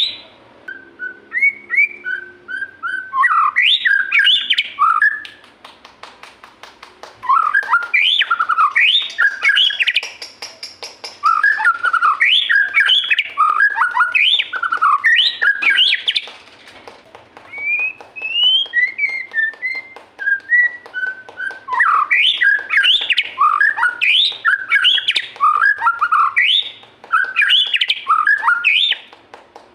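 Murai songbird singing loudly, with long, varied phrases of quick rising and falling whistles and chirps, each phrase lasting a few seconds, with short pauses between them and a softer, sparser passage about halfway through.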